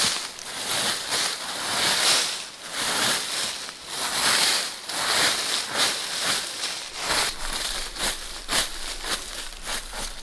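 Dry fallen leaves rustling and crunching in repeated swells every second or two, with sharp crackles among them.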